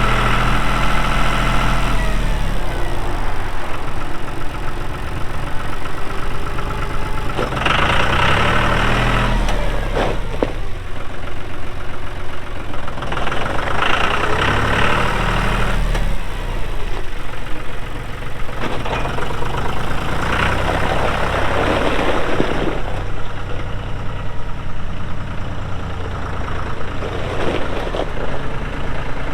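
John Deere 5105 tractor's three-cylinder diesel engine running, its speed rising and falling several times as the tractor is put through its paces.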